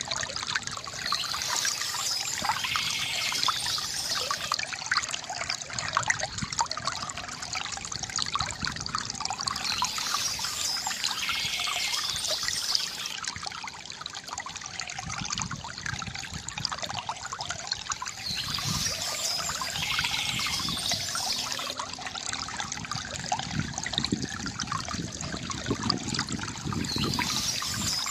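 River water trickling and gurgling steadily, with soft bird chirping; a brighter high-pitched patch of sound recurs about every eight to nine seconds.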